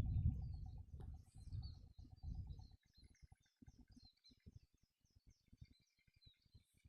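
Small birds calling: a run of short high chirps about four a second, with a lower trill, over a low rumbling noise that is loudest in the first three seconds and then fades.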